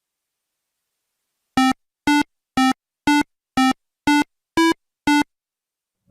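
Eight short synthesizer notes, evenly spaced about two a second, all on one pitch except a slightly higher seventh note.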